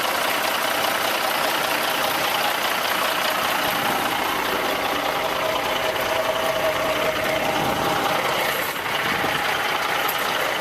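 A truck engine idling steadily, with a thin steady whine in the middle lasting a couple of seconds.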